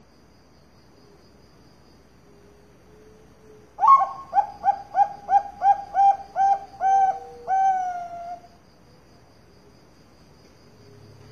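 Zebra dove (Bangkok-type perkutut) singing: a quick, rhythmic run of about eleven coos that starts about four seconds in and ends in one longer, drawn-out falling note.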